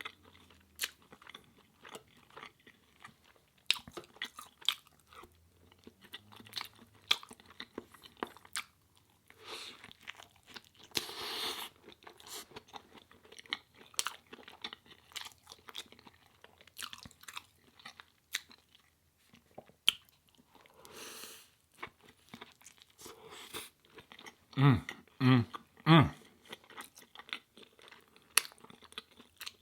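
Close-miked eating: chewing and crunching of a plant-based burger and crinkle fries, with many small mouth clicks throughout and a few louder low sounds near the end.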